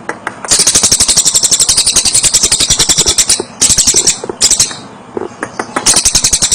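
Tengek cililin bird calling in fast, high-pitched rattling trills of about a dozen notes a second. One long trill runs about three seconds, then two short bursts, and another trill starts near the end.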